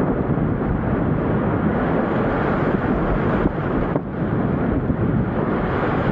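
Wind blowing over the microphone, a steady rush with two brief dips a little past the middle.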